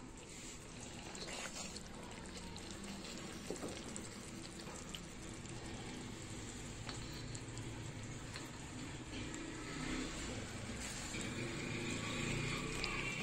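Chicken pieces in creamy gravy sizzling in a karahi: a steady, fairly quiet sizzle with a few faint clicks.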